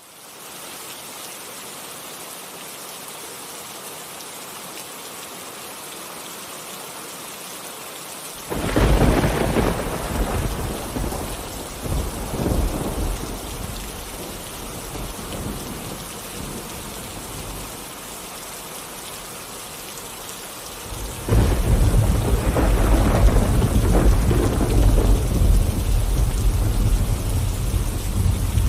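Steady rain falling, then a sudden loud clap of thunder about a third of the way in that rumbles away over several seconds. A second long, deep rumble of thunder begins near the end and carries on.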